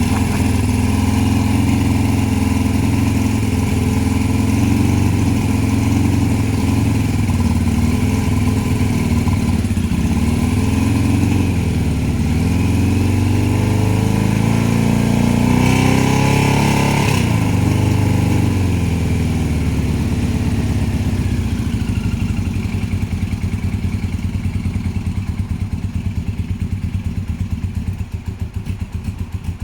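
1984 Kawasaki GPZ900R's inline-four engine running at idle. The revs rise and fall once midway, and then it settles to a slower idle with the separate firing beats audible near the end.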